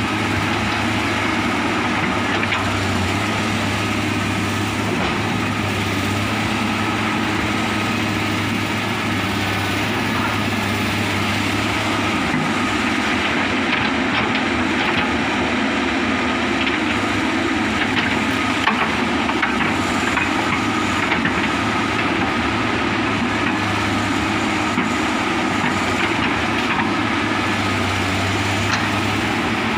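Komatsu excavator's diesel engine running steadily under work, with a few light knocks now and then.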